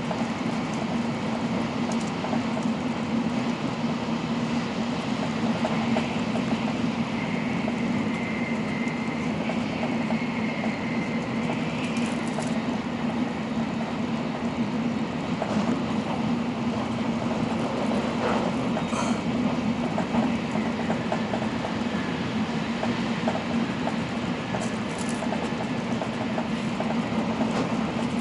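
N700-series Shinkansen train running at speed: a steady, even rumble with a low hum and a few faint clicks from the running gear.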